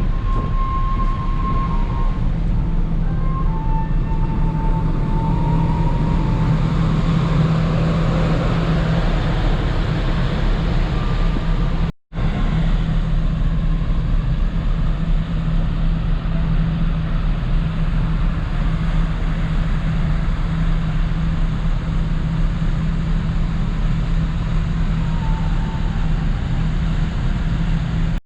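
Steady low engine drone with a rushing noise from a vehicle under way, with a constant low hum running under it. The sound cuts out for a moment about twelve seconds in and then carries on unchanged.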